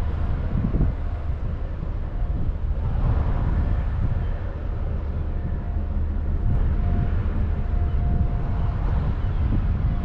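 Wind buffeting the microphone outdoors, a heavy fluctuating low rumble, with a faint steady hum underneath.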